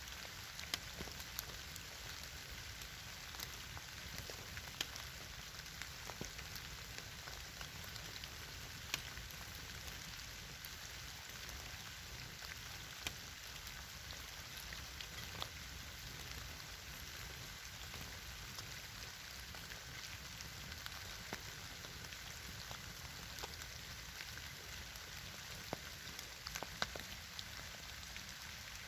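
Campfire burning: a steady crackling hiss with scattered sharp pops and snaps of burning wood.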